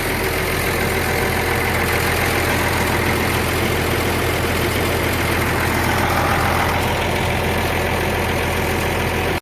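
Heavy machinery engine idling steadily, close by, with a deep constant hum; it cuts off suddenly at the end.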